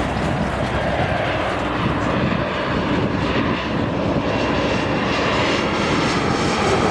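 Jet engines of a TAP Air Portugal airliner landing, a steady loud rush of engine noise. A faint high whine comes in near the end.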